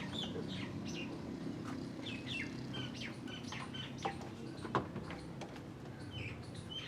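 Small birds chirping repeatedly over a steady low hum, with two sharp metallic clicks, the second the louder, about four and five seconds in.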